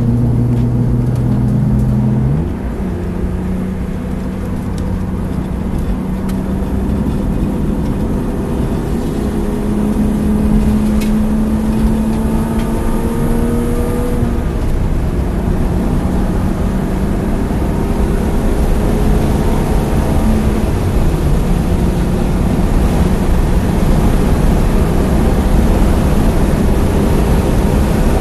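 BMW E36 325i's 2.5-litre straight-six heard from inside the cabin, pulling hard out of a corner and up a straight. Its pitch jumps up about two seconds in, then climbs steadily, dips about halfway through as it shifts up, and climbs again, over steady wind and tyre noise.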